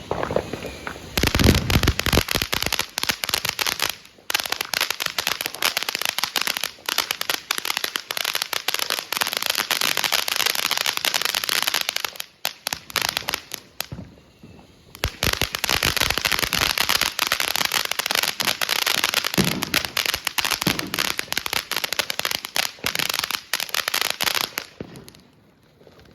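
TNT Good Vs Evil ground fountain firing: a dense run of crackling. It briefly eases off twice and tapers out near the end.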